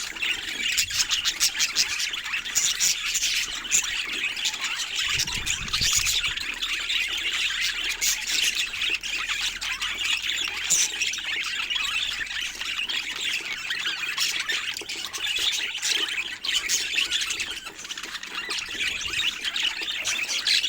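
Budgerigars chattering and chirping continuously in a dense stream of warbles, chirps and short clicks.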